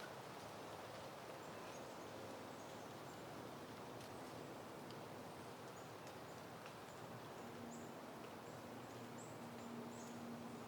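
Soft steady wind with a faint rustle of leaves, dotted with brief, faint high chirps. A low steady hum joins about seven seconds in.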